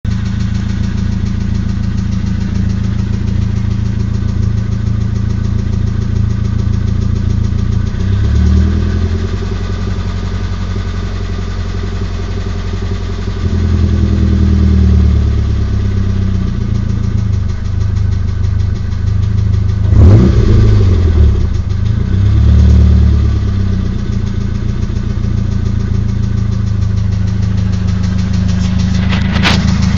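Nissan SR20DET turbocharged four-cylinder engine idling, with a knocking or tapping that is there only at low idle and goes away at 1250–1500 rpm; new rocker arms and lifters have not cured it, and the owner wonders whether it is the VCT gear. The revs rise and fall briefly a few times, and a loud knock sounds about twenty seconds in.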